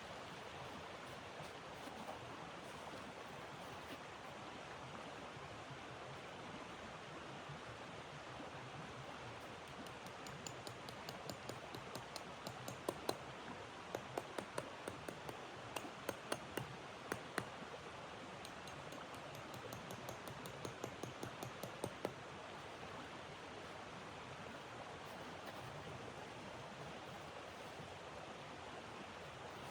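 Steady rushing noise of snowstorm wind, with a run of irregular sharp crackles and pops from a wood fire through the middle stretch.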